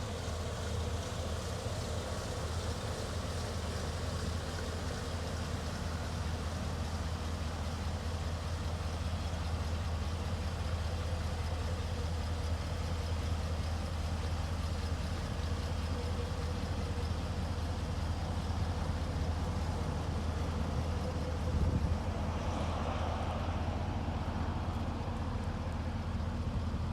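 The 6.0L Vortec gasoline V8 of a 2009 Chevrolet Silverado 3500 dump truck idling steadily, with a brief louder noise about three-quarters of the way through.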